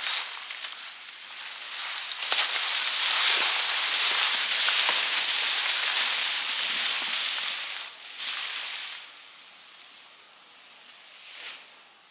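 Sweet potato vines and leaves rustling and crackling as they are pulled up and handled, loudest for about five seconds in the middle, then dying down near the end.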